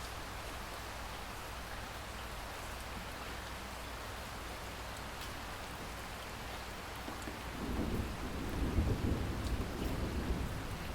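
Steady rain falling, a dense even hiss, with a low rumble of thunder rolling in about two-thirds of the way through and growing louder.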